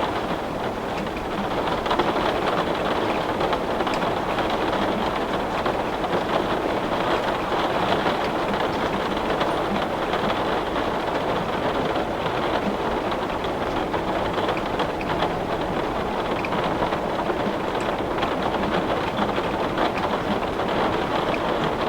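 Heavy rain falling on a window pane: a steady, dense hiss that holds even throughout.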